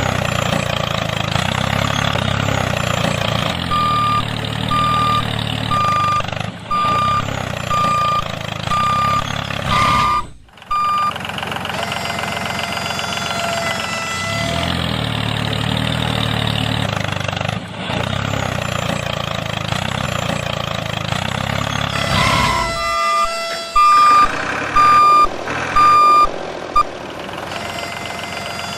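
Vehicle engine running steadily while a reversing alarm beeps at an even pace: a run of beeps from about four seconds in, and a few louder ones near the end.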